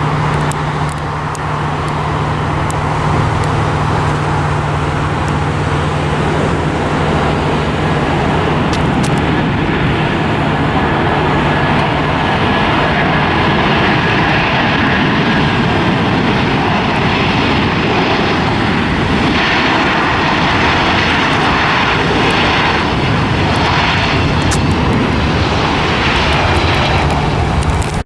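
Airliner engines running loud and steady: a broad rushing roar, with a faint high whine partway through.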